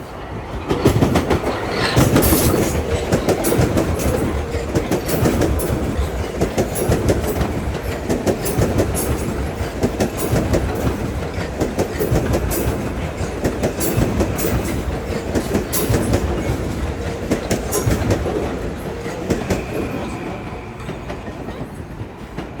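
Metro-North commuter train running through the station, its wheels clicking steadily over the rail joints under a heavy rumble. It builds about a second in and eases off near the end.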